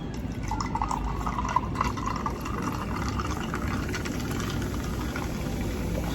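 Cola being poured into a glass, a fizzy, splashing fill that is busiest in the first two or three seconds and then settles.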